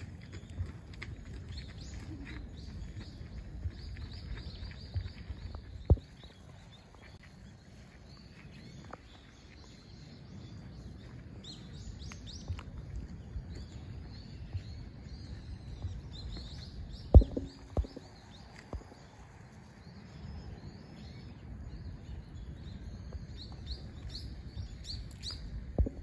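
Birds chirping in short high calls throughout, over a steady low rumble on the smartphone microphone. A few sharp knocks cut in, the loudest about seventeen seconds in.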